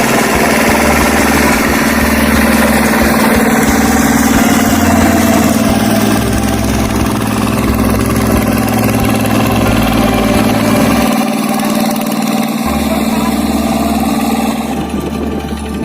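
An engine running steadily with a constant hum, cutting off abruptly near the end.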